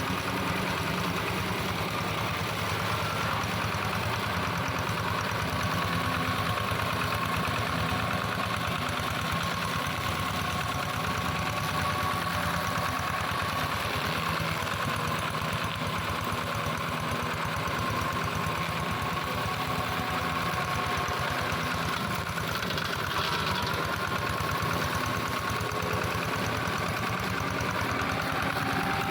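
Modified plough tractor's engine running steadily while mowing, with a steady high whine over the engine note.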